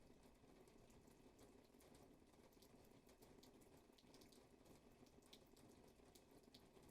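Rain falling steadily and faintly, a soft even hiss with scattered individual drops ticking.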